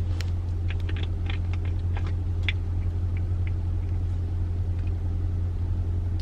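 Car engine idling while it warms up on a cold day: a steady low hum, with a few faint light ticks scattered over it.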